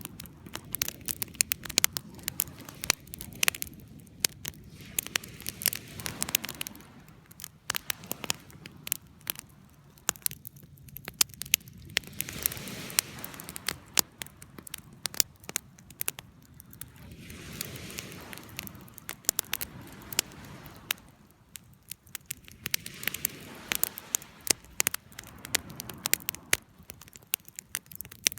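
Wood fire crackling, with many sharp pops over a soft rushing hiss that swells and fades every few seconds.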